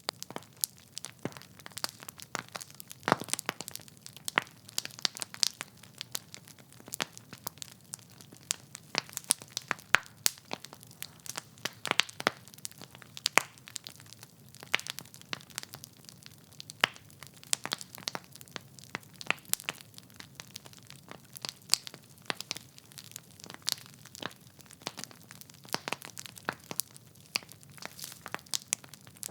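Wood fire in a fireplace crackling steadily: a dense stream of irregular sharp pops and snaps from the burning logs over a low, even rumble of the flames.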